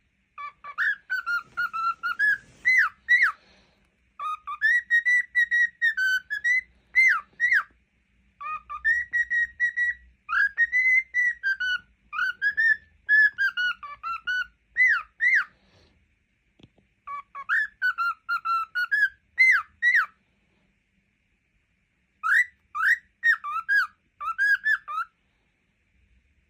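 Cockatiel singing: warbling whistled notes that glide up and down, in about five phrases of a few seconds each with short pauses between them.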